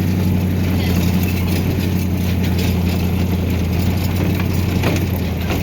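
Bale truck's engine running steadily as it drives, a constant low hum.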